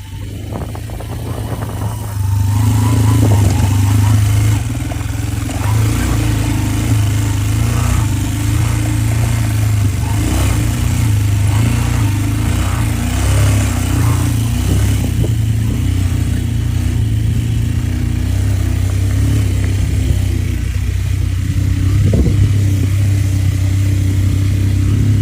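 An engine running steadily, with a low hum that gets louder about two seconds in.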